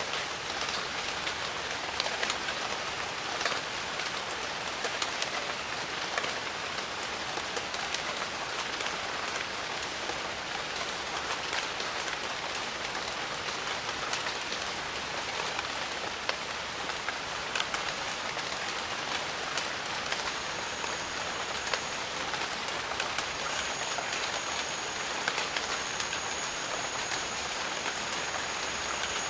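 Steady jungle rain falling, with many individual drops and drips ticking throughout. A thin, high, steady tone joins in briefly about two-thirds of the way through and returns near the end.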